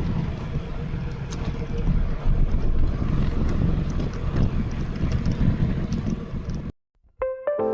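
Wind rushing and buffeting over the microphone while riding a scooter at speed, a heavy low rumble with road noise. It cuts off abruptly near the end, and after a brief silence music with plucked notes begins.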